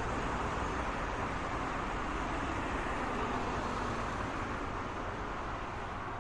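Steady road traffic noise: a continuous wash of car tyres and engines with no single vehicle standing out, easing off slightly near the end.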